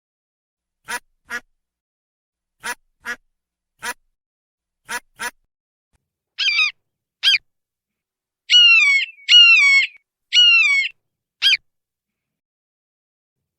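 Duck quacking: short quacks, mostly in pairs, then about six seconds in a run of louder, longer calls that fall in pitch.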